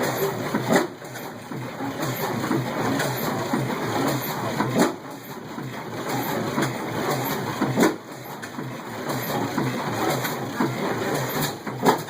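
Old stationary oilfield engines running, with a sharp loud stroke about every three to four seconds over a steady, busy mechanical clatter.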